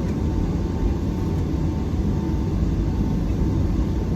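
Steady low rumble of cabin noise inside a Boeing 757-300 airliner, with a faint steady high tone.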